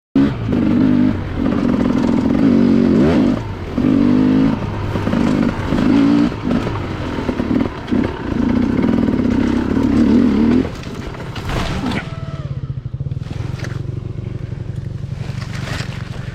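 Enduro dirt bike engine revving hard in repeated throttle bursts as it climbs over slippery logs. About two-thirds of the way through it drops to a lower, steadier running, with a few knocks and scrapes.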